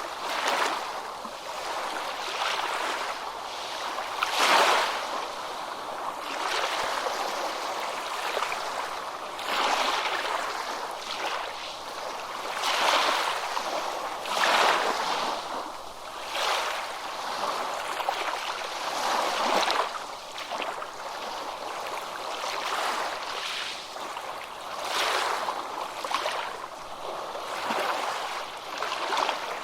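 Ocean waves breaking and washing onto a beach, a steady hiss of surf that swells and ebbs every few seconds at uneven intervals.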